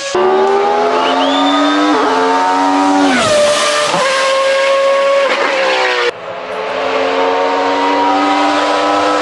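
Judd Formula 1 V8 racing engine at full throttle, pulling up through the gears, its pitch dropping at each of several quick gear changes. About six seconds in the sound breaks off abruptly, then the engine is heard pulling hard again.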